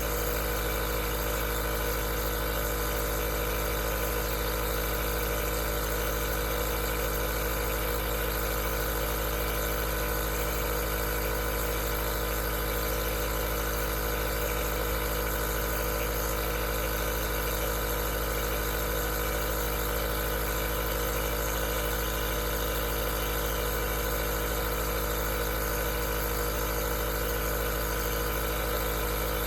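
Aerosol nebulizer's compressor running steadily, a constant hum with several fixed tones over an even hiss.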